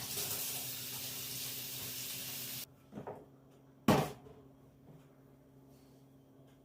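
Kitchen tap running water into a sink, shut off suddenly after about two and a half seconds, followed by a light knock and then a sharp clunk about a second later.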